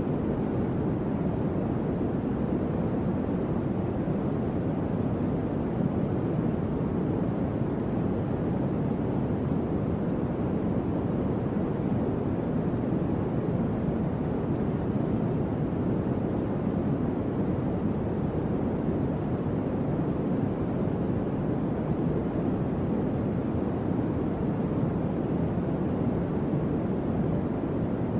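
Electric fan running with a steady, even whoosh of moving air, low and dull in tone, with no change in speed.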